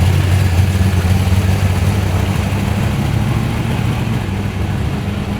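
Muscle car's engine running at low revs with a loud, deep, steady rumble, easing off slightly near the end.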